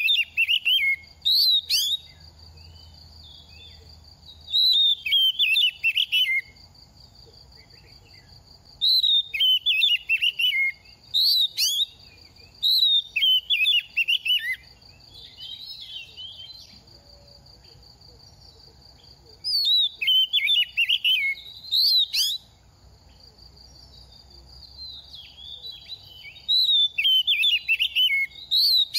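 Oriental magpie-robin singing in bursts of rapid, varied whistled notes, about six phrases a few seconds apart.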